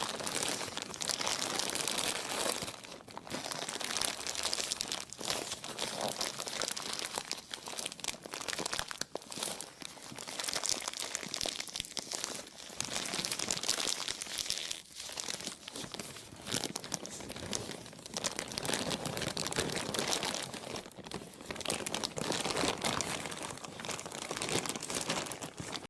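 Plastic being crinkled and crumpled continuously, a dense crackle of many small clicks, dipping briefly a few times.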